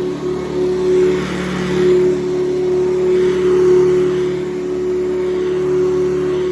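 1980s Hoover Convertible U4387 upright vacuum, a 5 amp motor with a 6-blade fan, running steadily with a strong even hum and slight swells in loudness. It has a beefier sound than the other Hoover Convertible models.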